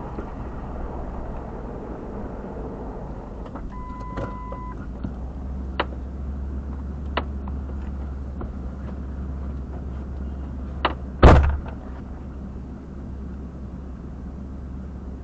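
Steady low rumble inside a parked car, with a one-second electronic beep about four seconds in, a few sharp clicks, and a loud thump a little after eleven seconds.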